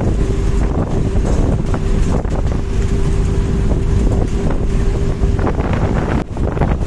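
Strong wind buffeting the microphone aboard a moving bus, over the low rumble of the bus and road. A steady hum runs underneath and cuts off about five and a half seconds in.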